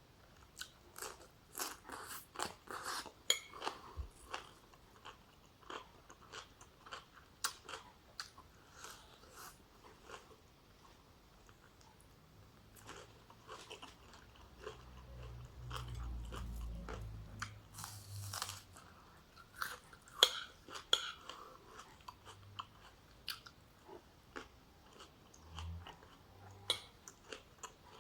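Close-up eating sounds: a person chewing and crunching food with many short, sharp crunches and mouth clicks, densest near the start. A low rumble lasts a few seconds around the middle.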